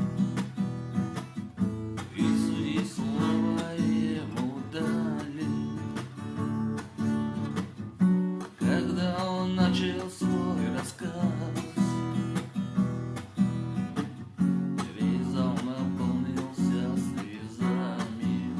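Acoustic guitar strummed in a steady rhythm: an instrumental passage without singing.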